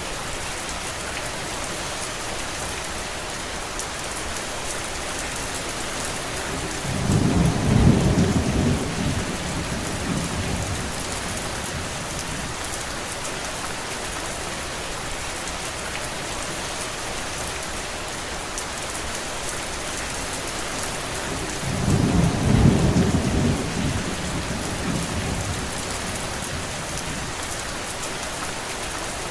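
Steady rain hissing, with two low rumbles of thunder, the first about seven seconds in and the second about twenty-two seconds in, each swelling and fading over roughly three seconds.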